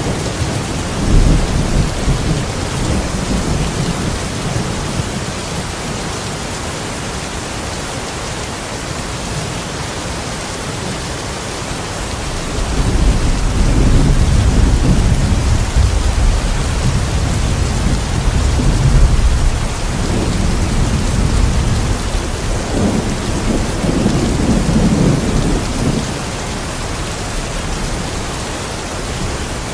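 Steady rain falling, with rolling thunder: a low rumble in the first few seconds, then a longer, louder roll from about twelve seconds in that dies away near the end.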